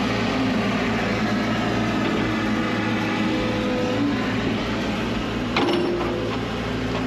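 Excavator's diesel engine running under load, with a hydraulic whine that shifts in pitch as the machine digs beneath a large tree stump. A sharp clank comes a little past halfway.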